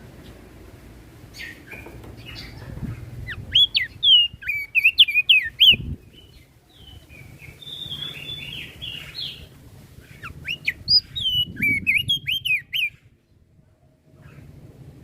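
Crested white-eye (opior jambul) singing in two quick bouts of sharp, sweeping whistled notes, with a scratchier phrase between them, over a low steady hum.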